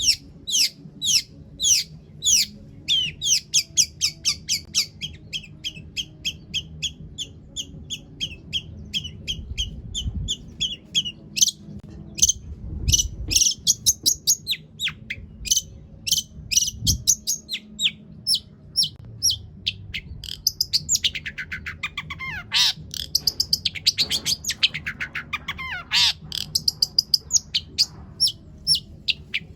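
Long-tailed shrike singing a fast, unbroken run of short, sharp repeated notes and chattering phrases, its song filled out with borrowed calls of other birds. About two-thirds through, the notes turn into falling whistled sweeps.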